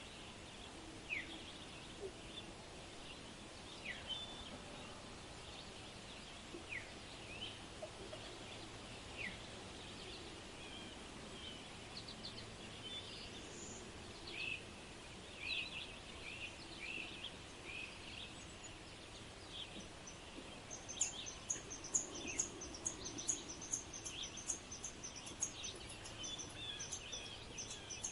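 Several birds calling and chirping with short, scattered notes, joined about three-quarters of the way through by a fast run of high, sharp chirps.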